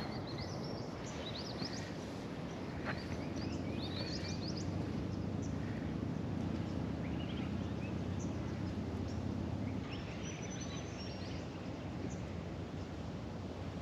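Several birds chirping and calling in short scattered bursts over a steady low background rumble of outdoor noise.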